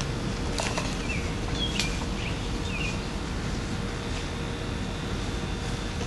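Outdoor ambience: a steady low rumble of background noise with small birds chirping several times.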